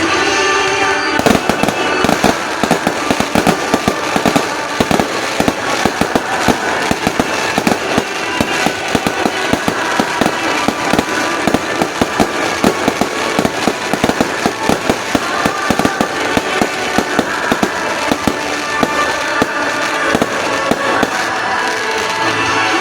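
Fireworks going off in a rapid, dense barrage, many bangs and crackles a second with no pause, with music playing underneath.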